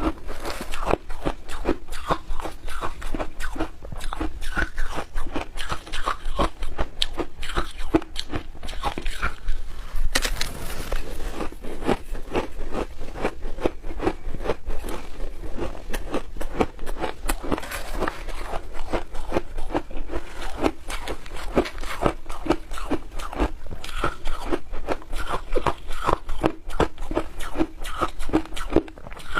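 Teeth biting and crunching through milk-powder shaved ice in a dense, irregular run of crisp crunches.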